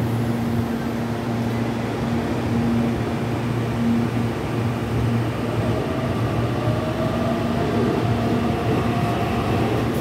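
Electric commuter train moving along the platform: a steady low electrical hum, with a motor whine that slowly rises in pitch over the last few seconds as it picks up speed.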